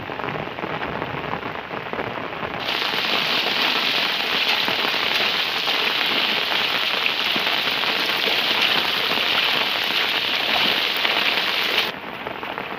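Heavy rain falling, a steady hiss. A little under three seconds in it turns louder and brighter, then drops back to the duller hiss about a second before the end.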